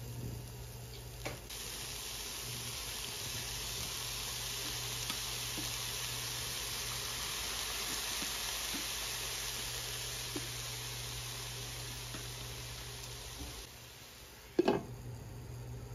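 Shredded chicken and onion frying in a non-stick pan: a steady sizzle that comes in about a second and a half in and fades out near the end, over a low steady hum. A single sharp knock sounds just after the sizzle stops.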